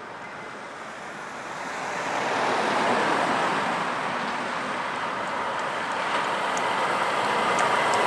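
Road vehicles driving past: a haze of tyre and engine noise swells about two to three seconds in, eases a little, then builds again near the end as another vehicle comes closer.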